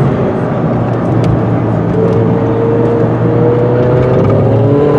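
McLaren 720S twin-turbo V8 engine running under steady acceleration, its note climbing slowly, then dipping and starting to climb again near the end.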